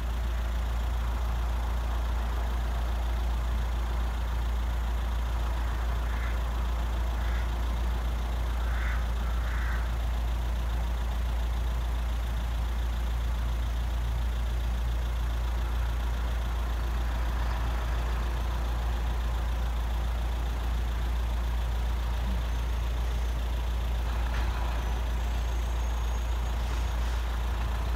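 Steady low rumble of a road vehicle's engine idling, even in level, with a few faint short chirps between about six and ten seconds in.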